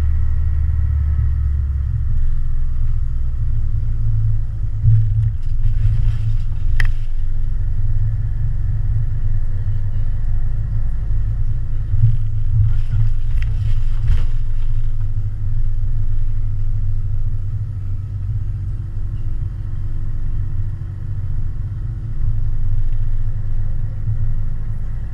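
Steady low rumble of a running engine, with a few sharp knocks or clatters partway through.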